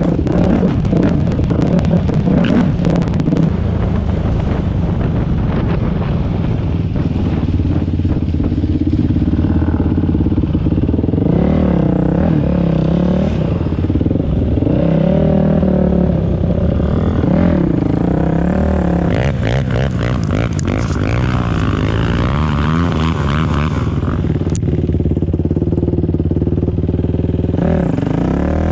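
Dirt bike engine running hard on a trail ride, its revs rising and falling as the throttle opens and closes, with a spell of clattering knocks about two-thirds of the way through.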